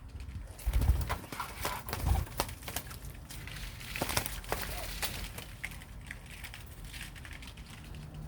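Birds moving about, making irregular sharp taps and knocks with rustling and wing flutters, loudest in the first few seconds.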